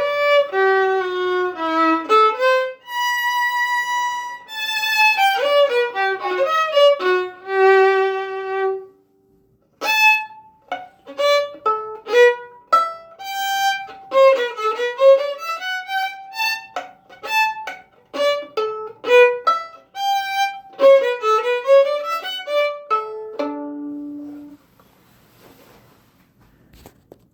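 Solo violin playing: smoothly joined held notes, a brief pause about nine seconds in, then a run of short, detached notes ending on a lower note, after which the playing stops near the end.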